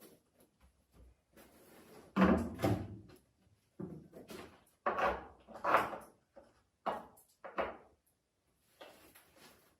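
A series of irregular knocks and scrapes, loudest about two seconds in and again around five to six seconds, with short gaps between them: objects being handled and set down.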